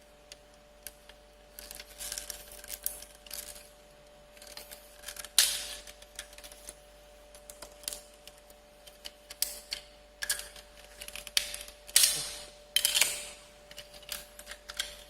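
Hard plastic parts of an action figure being handled, pulled apart and snapped together: irregular clicks and short scrapes, with a few louder snaps and rubs about five seconds in and near the end.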